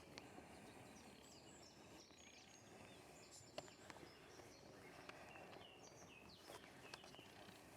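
Faint songbirds chirping, with many short high calls scattered through, and a few soft clicks.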